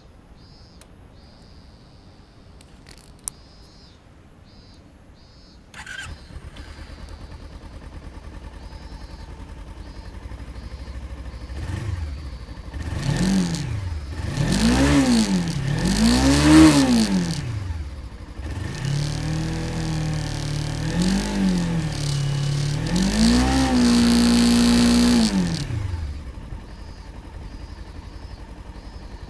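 Suzuki GSR250S motorcycle's 248 cc parallel-twin engine starting about six seconds in and settling to idle, then revved with several quick throttle blips, a rev held high for about two seconds, and back to a steady idle.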